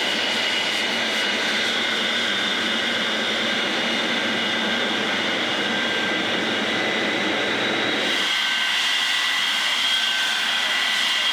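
Jet aircraft flying at an air show: a steady jet-engine rush with a high turbine whine. About eight seconds in, the lower rumble drops away and the whine carries on.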